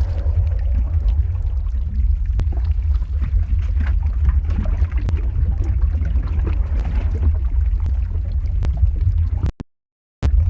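Lava-flow ambience sound effect: a deep steady rumble with many scattered crackles and pops over a hissing wash. It cuts out to silence for about half a second near the end.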